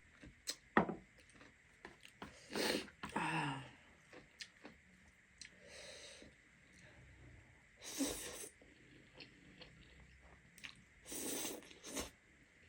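Close-up eating sounds from a mukbang of spicy buldak ramen and chicken: quiet chewing and small scattered clicks, broken by several short noisy slurps.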